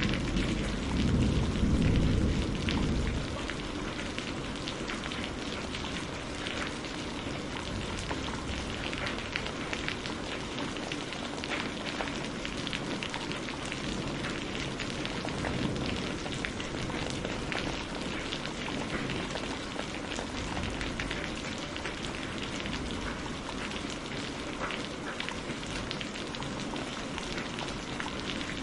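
Steady rain falling, with thunder rumbling during the first three seconds before dying away.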